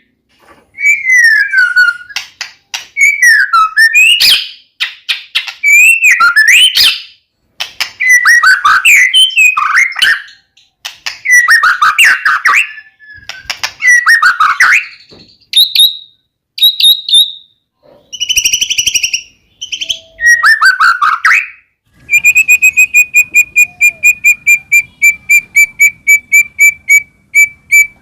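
White-rumped shama singing loud, varied whistled phrases with short pauses between them. About 22 seconds in, it breaks into a fast run of repeated notes, about five a second.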